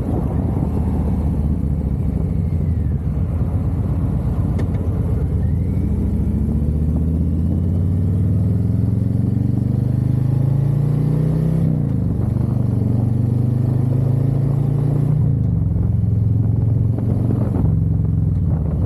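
Harley-Davidson V-twin motorcycle engine accelerating through the gears. A low rumble builds into a rising engine note, which drops at a gear shift about 12 seconds in, rises again, and drops at another shift about 15 seconds in before holding steady.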